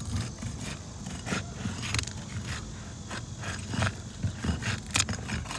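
Roof ridge cap shingles being pried loose: irregular scraping with sharp clicks and snaps as the shingles come free.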